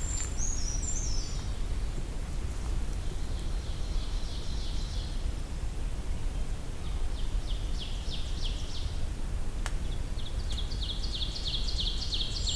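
Brown creeper singing a short jumble of high, thin notes at the start. Later another small bird gives several faster, lower trills of rapid repeated notes. A steady low outdoor rumble underlies both.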